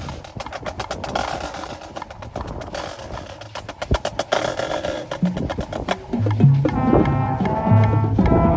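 Fast clicking percussion strokes, like sticks or a wood block playing a rhythm, for about six seconds; then band music with brass and a bass line comes in.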